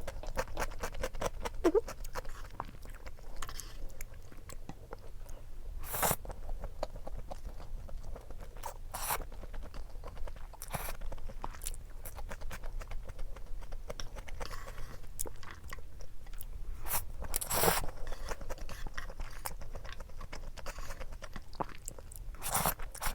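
A person eating close to the microphone: steady chewing with crunchy bites, from a meal of perilla-oil buckwheat noodles and dumplings. About five louder, brief bites stand out over the quieter chewing.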